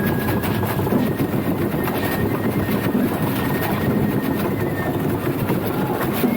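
Steady rumbling of a wooden danjiri festival float rolling along the road on its wheels.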